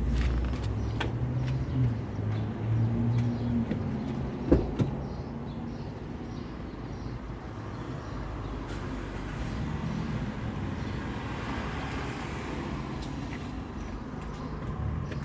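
Car engine running with a steady low rumble, and a single sharp knock about four and a half seconds in.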